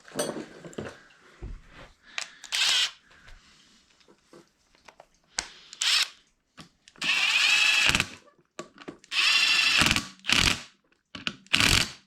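Power drill run in several short spurts, the longest about a second, with light clicks of handling between them.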